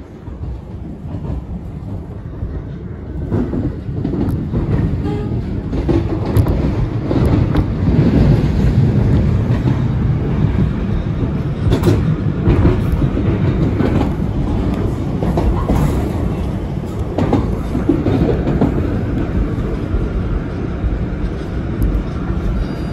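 PATH rapid-transit train running along the track, heard from inside the car: a steady rumble of wheels on rail with scattered clicks over rail joints. It grows louder over the first several seconds.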